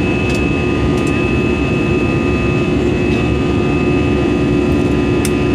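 Steady jet engine noise heard inside the cabin of an Airbus A320-214, an even rumble with a steady hum running through it and a few faint clicks.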